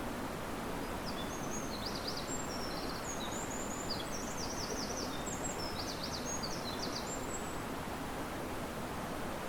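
Steady rush of river water with wind in the riverside trees, and a small songbird singing a quick run of high twittering chirps and trills from about a second in until past the middle.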